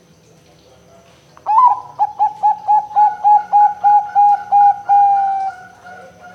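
Zebra dove (perkutut) cooing its song: a rising opening note, then a fast run of about a dozen short, even coos, about four a second, ending in a longer drawn-out note that fades.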